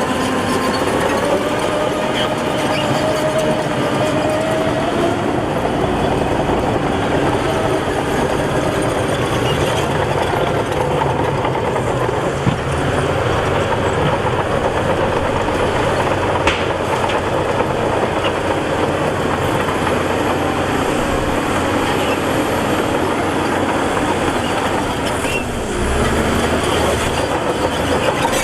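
Shantui DH17 C2 crawler bulldozer working: its diesel engine runs steadily under load with a wavering drone, while the steel tracks clatter. Near the end the low rumble grows heavier.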